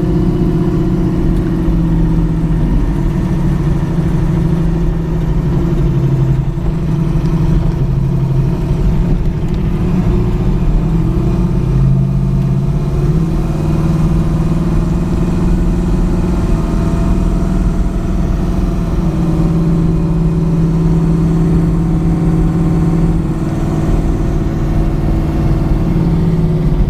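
Chevrolet Nova hot rod's engine running at a steady cruise, heard from inside the car with road noise, its pitch shifting slightly up and down a few times with the throttle.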